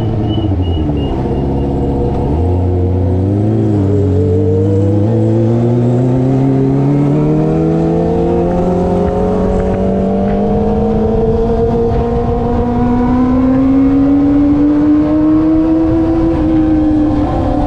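Kawasaki ZX25R's 250 cc inline-four through an SC Project aftermarket exhaust, loud. The engine drops in pitch as it slows over the first couple of seconds, then climbs steadily through the revs as the bike accelerates for a long stretch, and eases off slightly near the end.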